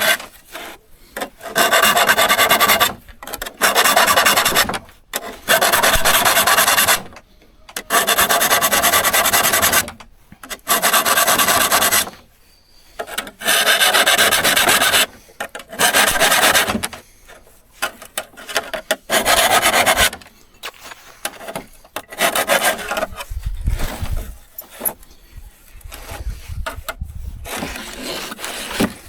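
Hand file rasping over steel saw teeth in repeated push strokes, each about one to two seconds long with short pauses between, as the teeth are sharpened by hand. In the last several seconds the strokes give way to lighter, irregular scraping and a few dull knocks.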